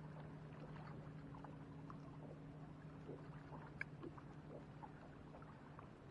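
Quiet water lapping against a kayak hull, with small scattered ticks, a single sharp click a little under four seconds in, and a faint steady hum underneath.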